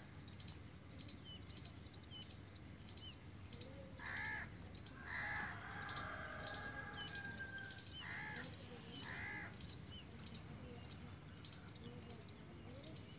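Birds calling in the background: four calls in two pairs, each pair about a second apart, over faint chirping.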